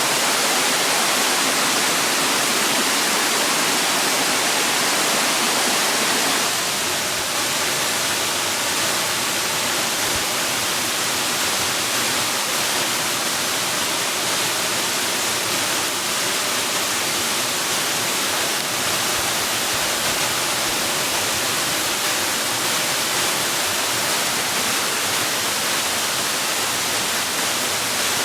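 Steady, even rush of falling water like a waterfall. About six and a half seconds in it turns slightly quieter and duller.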